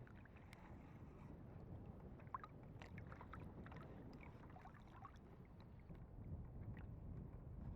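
Near silence: a faint low outdoor rumble, with a few faint brief high ticks about two to three seconds in.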